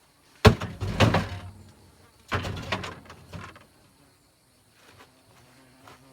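Saiga 410 semi-automatic shotgun firing a .410 slug about half a second in: a single sharp report with a long decaying tail. A second, softer burst of noise follows about two seconds later.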